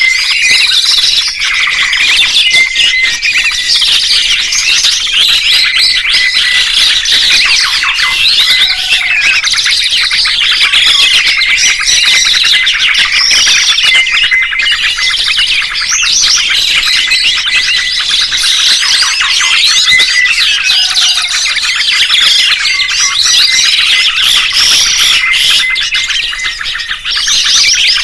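Songbird chirping: a loud, unbroken stream of rapid high twittering notes and trills.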